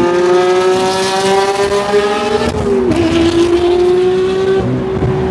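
Porsche 992 GT3's naturally aspirated 4.0-litre flat-six at high revs under hard acceleration. Its pitch climbs slowly, dips quickly about two and a half seconds in as it shifts up, then holds nearly steady.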